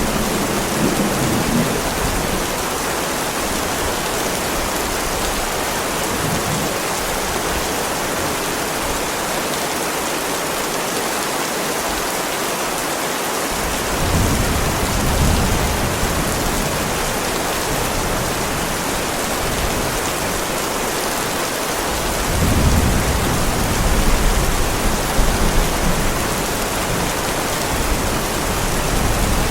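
Heavy rain falling steadily on a driveway, a dense even hiss. Low rolls of distant thunder rumble beneath it about halfway through and again for several seconds near the end.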